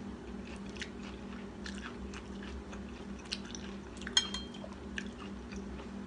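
Soft, close chewing of a mouthful of stir-fried corn, small wet mouth clicks scattered throughout, over a steady low hum. One sharper light click with a brief ring sounds about four seconds in.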